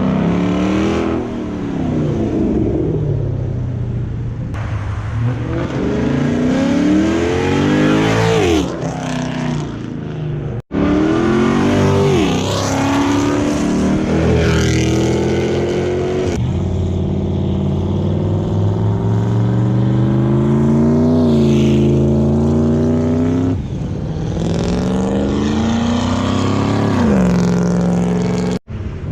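Muscle car engines revving and accelerating hard away, one after another, each rising in pitch and dropping back as the cars pull off and shift.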